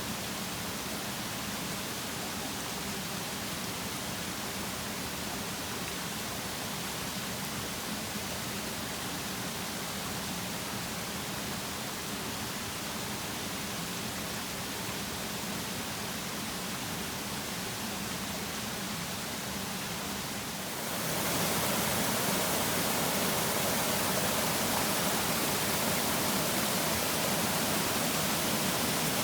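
Mountain stream rushing in a steady, even wash. About two-thirds of the way through it turns abruptly louder and brighter, then holds steady.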